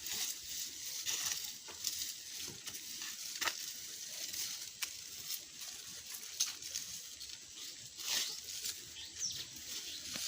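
Dry sawdust being scooped and pushed in with a spade, rustling steadily with a sharper scrape every second or two.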